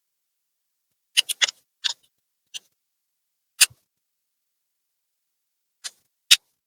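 Small hard clicks and taps of laptop parts and tools being handled: a quick cluster of four about a second in, then single clicks spaced out, with dead silence between them.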